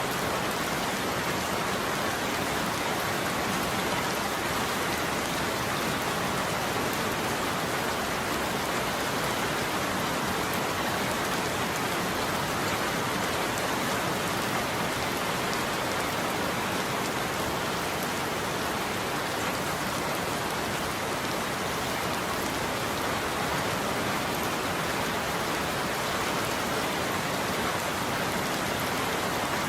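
Steady heavy rain falling, an even, unbroken hiss of many drops with no thunder.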